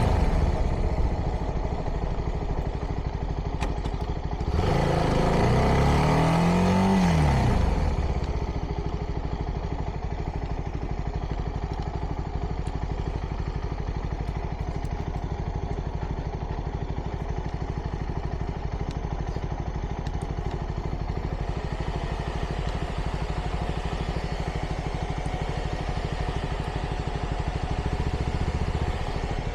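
CFMoto 300NK's single-cylinder engine running through its stock exhaust, mostly idling steadily while it warms up. About four seconds in it is revved once, the pitch climbing and falling back over about three seconds.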